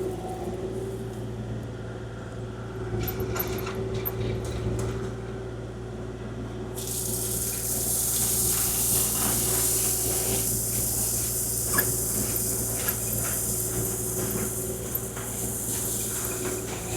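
Kubota KX040-4 mini excavator's diesel engine running steadily under load, with scattered clicks. About seven seconds in, a strong steady hiss sets in and holds.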